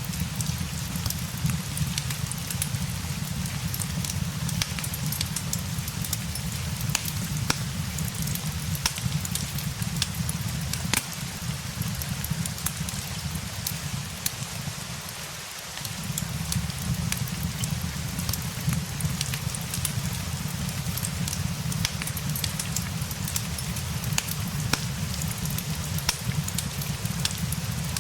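Steady rain blended with a crackling log fire: an even wash of rain over a low rumble, with frequent sharp, irregular crackles. The low rumble drops away briefly about halfway through.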